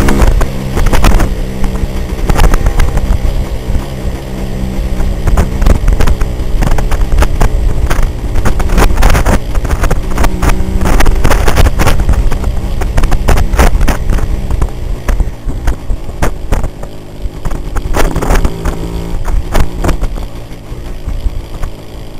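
Yamaha DT400's single-cylinder two-stroke engine running as the motorcycle is ridden, its pitch rising and falling with the throttle, heard from the handlebars. Many short knocks and rattles come through along with it.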